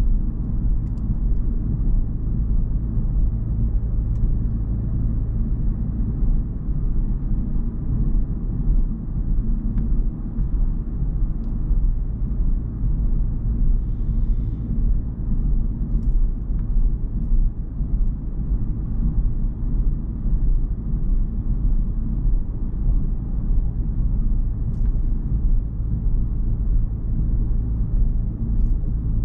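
Steady low rumble of an Audi S5's 3.0-litre V6 running, heard from inside the car's cabin.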